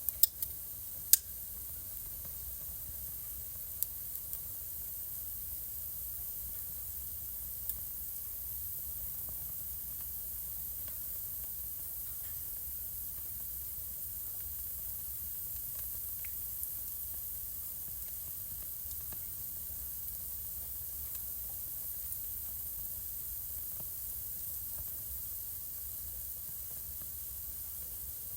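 Wood fire burning in a fireplace: a steady hiss with sharp pops and crackles. Two loud pops come right at the start and a few more about 4 and 8 seconds in, then the crackling thins to faint, scattered pops.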